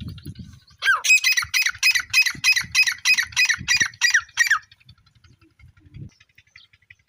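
Partridge (tetar, sold as 'Irani tetar') calling: a falling note about a second in, then a rapid run of harsh, squawking calls at about four a second that stops some three and a half seconds later.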